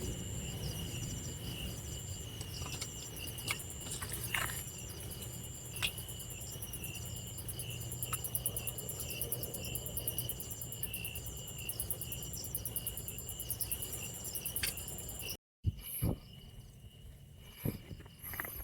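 Insects chirring: a steady high trill with a regular pulsed chirp above it and a few scattered clicks. It cuts off suddenly about fifteen seconds in, leaving only faint clicks and rustles.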